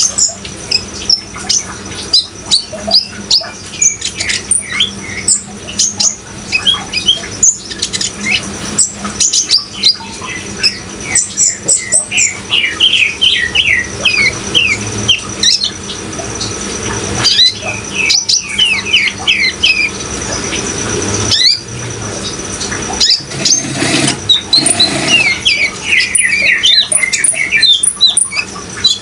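Olive-backed sunbird (kolibri ninja) singing: a rapid, continuous run of short high chirps and sweeping notes, with quick trills several times. Steady running water underneath.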